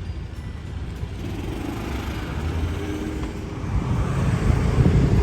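Street traffic with a car engine running, its sound growing louder over the last few seconds as it comes closer.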